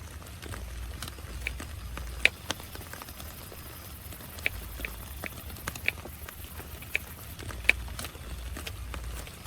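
Heavy rain falling steadily on a tent, with irregular sharp taps of large drops striking the fabric, two of them louder, about two seconds in and near eight seconds.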